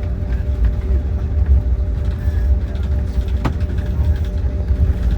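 Jet airliner's engines heard from inside the cabin: a steady low rumble with a constant hum, and one short click about three and a half seconds in.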